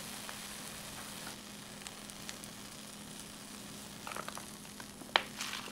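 Egg-coated toast sizzling in a nonstick frying pan, a steady hiss. Near the end come a few short crinkles and a sharp click as a small ketchup packet is squeezed over it.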